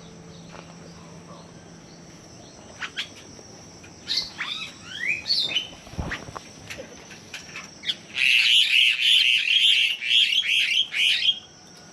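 Birds calling close by: a few short whistled glides about four seconds in, then a loud burst of harsh, rapid chattering from about eight seconds that stops shortly before the end.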